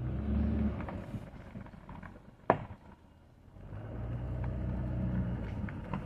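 Car engine running with a low rumble that swells, fades and swells again, and a single sharp click about two and a half seconds in.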